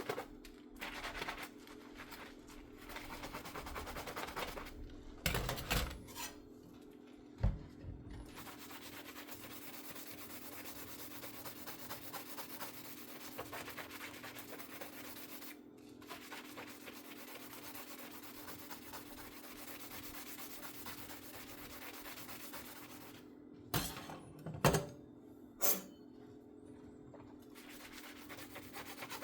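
Dishes scrubbed by hand with a sponge: a steady rubbing scrub, broken by a few knocks of dishware against the sink about five to eight seconds in and a quick cluster of knocks near the end.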